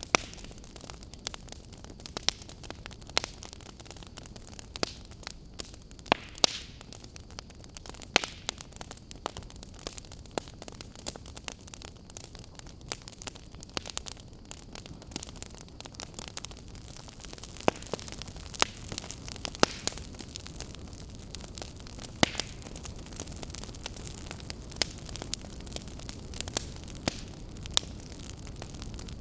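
Fireplace fire crackling: irregular sharp pops and snaps over a steady low hiss, a little busier and louder in the second half.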